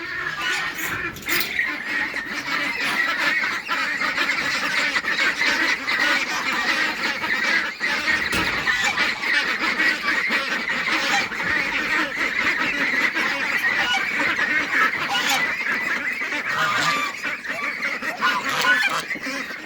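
A mixed farmyard poultry flock of geese, ducks and chickens calling all at once at feeding time, with goose honking standing out from a dense, unbroken chorus.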